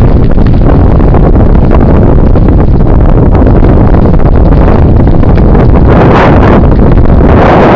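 Heavy wind buffeting the microphone of a camera riding along on a bicycle, a loud continuous rumble with stronger gusts about six seconds in and again near the end.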